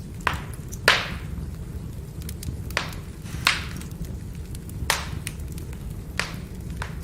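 Firewood burning: a steady low rumble with crackling, about six sharp pops over several seconds, the loudest about a second in, and many small ticks between them.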